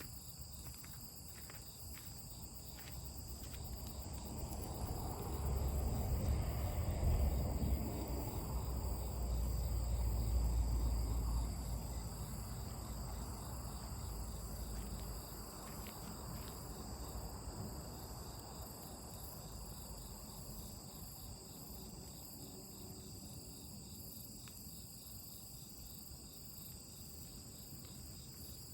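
Insects, crickets or similar, chirring steadily in several high, even pitches. A low rumble swells up a few seconds in and fades away over about ten seconds, with a few sharp clicks near the start.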